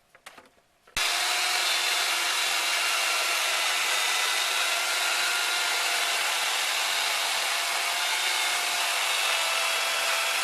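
Electric chainsaw switching on about a second in and running steadily with a high motor whine, cutting through two overlapped wooden boards.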